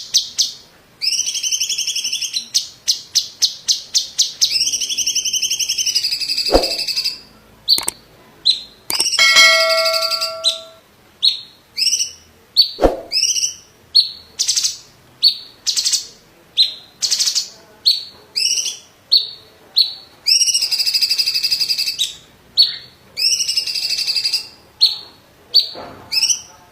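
Cucak cungkok (a leafbird) singing loudly in a fast, varied stream. It mixes rapid runs of sharp repeated chirps, sweeping rolled trills and a short stepped run of pure whistled notes about ten seconds in. Two sharp clicks sound at about six and a half and thirteen seconds.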